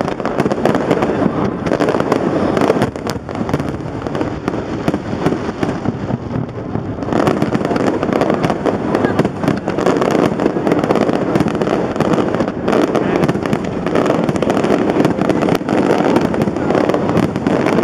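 Fireworks display: a dense, continuous crackle of bursting shells with many sharp pops and bangs, easing off for a few seconds about three seconds in, then building again.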